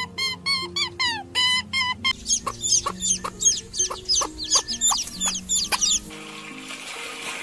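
Chicken calling in a rapid run of short, high, falling notes, about four a second, over background music, after a spell of quicker, lower chirps. About six seconds in the calls stop and a steady hiss takes over.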